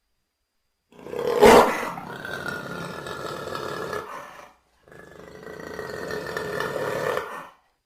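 Jaguar calling: two long, harsh calls separated by a short pause, the first starting with a loud burst about a second and a half in.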